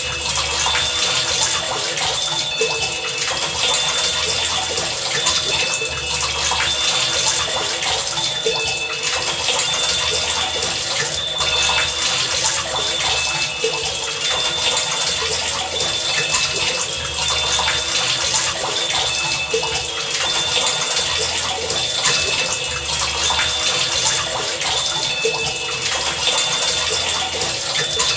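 Heavy rain pouring steadily, a dense hiss of water. Under it are faint steady tones and a low hum that comes and goes every few seconds.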